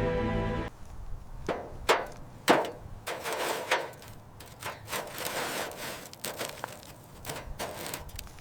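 Hands-on workshop work: several sharp knocks and taps, then scraping and rubbing with scattered clicks. Background music stops abruptly at the start.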